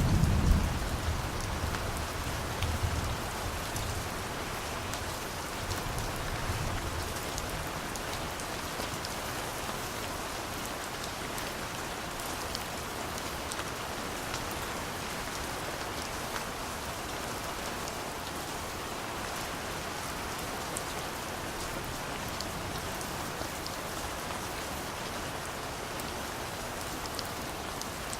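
Steady rain falling, with a distant thunder rumble dying away in the first few seconds and a weaker low rumble about six seconds in.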